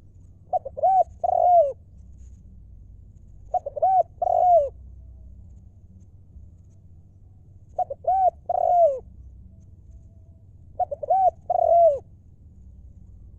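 Decoy spotted dove cooing: four phrases about three seconds apart, each a few short coos followed by a longer, falling coo.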